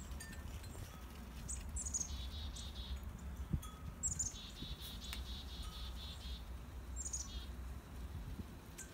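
A small songbird singing: a high, quickly falling note followed by a buzzy trill of about a second, repeated three times.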